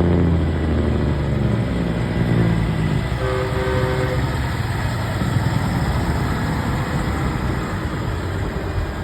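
Semi trucks' air horns blowing over steady diesel engine rumble. A deep horn holds for the first couple of seconds, and a short two-note horn chord sounds about three seconds in.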